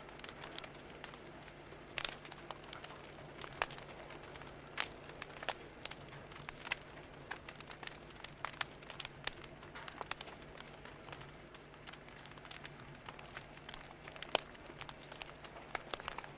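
Wood fire crackling, with irregular sharp pops over a faint hiss. A low steady hum runs underneath.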